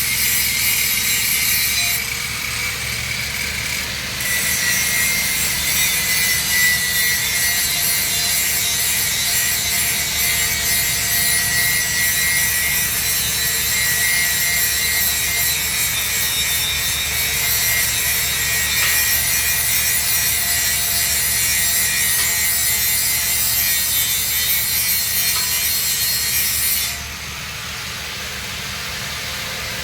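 Welding arc on 3-inch schedule 80 steel pipe, a steady loud crackling hiss, with a brief drop in level about two seconds in and again near the end.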